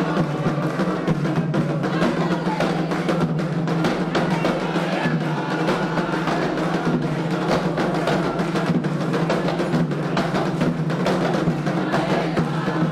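Candomblé ritual percussion, atabaque hand drums with struck percussion, playing a dense, fast rhythm without a break over a steady low hum.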